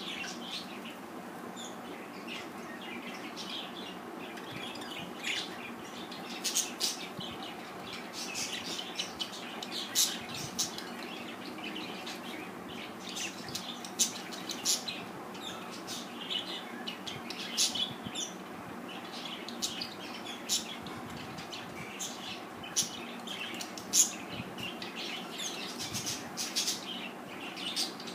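Pet budgerigars chirping and chattering in short, sharp calls, sparse at first and coming thick and fast from about five seconds in, over a steady low hum.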